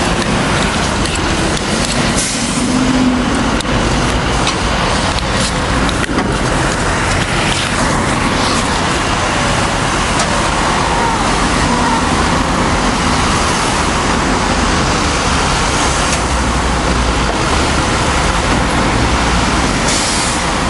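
Steady road noise of traffic and running vehicle engines.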